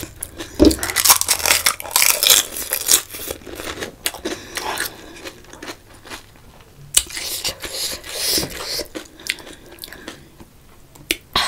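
Close-miked crunching and chewing of a panipuri: the crisp fried puri shell cracks as it is bitten, followed by wet, crunchy chewing. It is busiest in the first few seconds, goes quieter for a while, and picks up again later.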